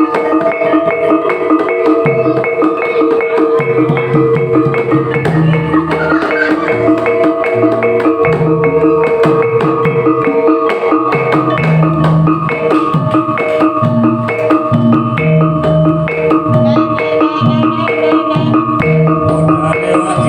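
Music for a Topeng Ireng dance: tuned mallet percussion plays a fast repeating figure over sustained notes, with low drum strokes coming and going in short phrases.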